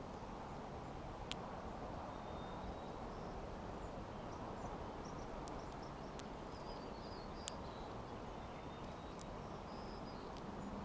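Small songbirds chirping faintly at a backyard feeder, with a few sharp clicks over a steady outdoor hiss; the chirps cluster in the second half.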